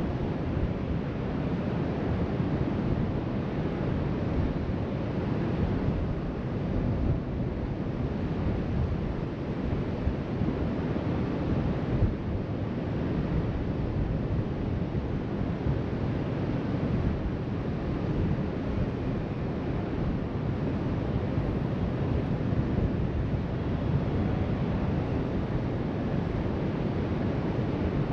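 Steady wash of surf breaking on a beach, heard from a height, mixed with wind rumbling on the microphone.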